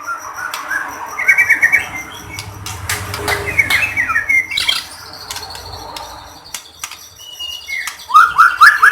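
White-rumped shama (murai batu) singing: fast runs of rising notes and chatter broken by sharp clicks, with a long high whistle in the middle and another rapid run of notes near the end.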